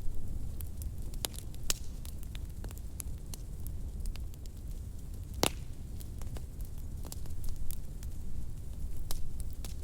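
Fireplace fire crackling: irregular sharp pops and snaps over a steady low rumble, with one louder pop about halfway through.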